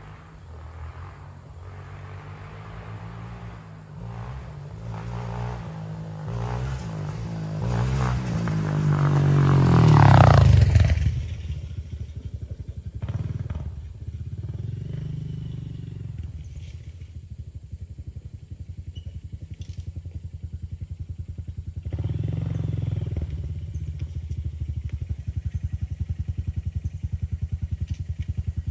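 Honda CRF125F single-cylinder four-stroke dirt bike engine accelerating, its pitch climbing to its loudest about ten seconds in, then dropping away. Short throttle surges follow, and near the end it settles into an even, steady pulsing.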